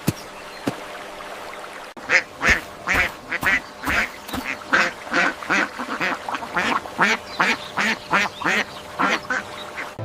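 Ducks quacking: after a quiet first two seconds, a rapid run of short quacks, two to three a second.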